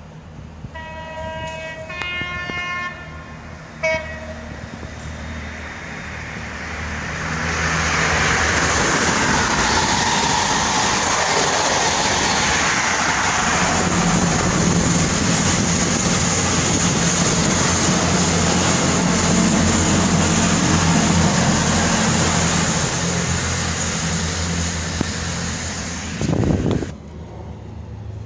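A train horn sounds a few short blasts. Then a passenger multiple unit passes close by, its wheels and engines running loud for about twenty seconds before the sound drops away sharply near the end.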